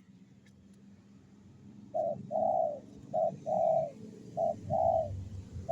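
Zebra dove (perkutut) cooing: starting about two seconds in, a short note followed by a longer one, repeated three times in an even rhythm.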